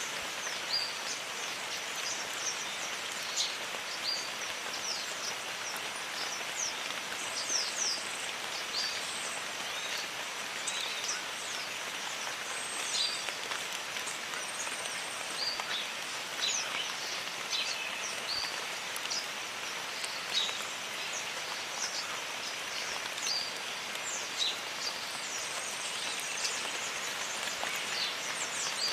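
Steady jungle rain falling, with many short, high, falling chirps from birds scattered through it.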